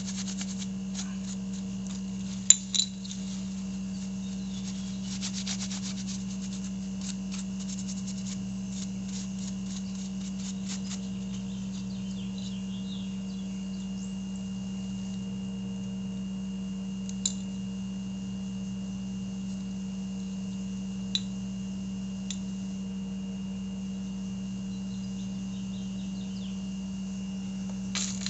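Quick scrubbing and rubbing strokes as motorcycle brake parts are cleaned, then a few sharp clicks further on, over a steady low hum.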